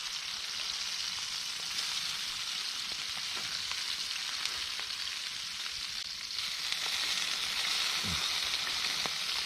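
Steak, burgers and mushrooms frying in hot bacon fat over a campfire: a steady sizzle with faint small ticks, getting louder about six seconds in.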